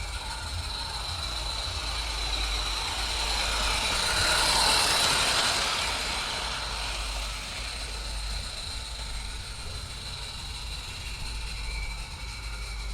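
Roundhouse Lady Anne live steam garden-scale locomotive running with a coach, its steam exhaust hissing and its wheels clicking over the track. The sound grows to its loudest about five seconds in, then eases off.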